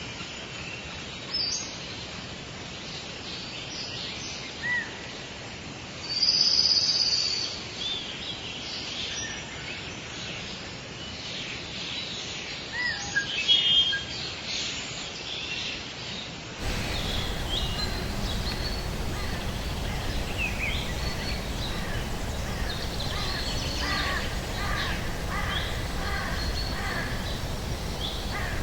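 Forest birds calling: many short chirps and whistles over a steady background hiss. About two-thirds of the way through, the recording changes abruptly to a noisier one with busier chirping.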